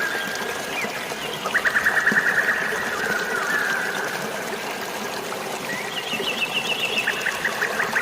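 Steady rush of running water with birds singing over it. A fast trill of rapidly repeated notes comes about one and a half seconds in, and more trills follow near the end.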